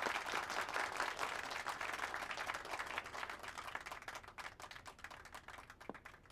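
A group of people applauding, the clapping dense at first, then thinning to a few scattered claps and dying away near the end.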